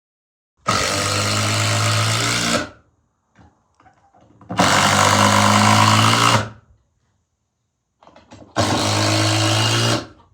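A power drill/driver driving screws through 2x4 lumber, three times. Each run lasts about two seconds at a steady speed and then stops.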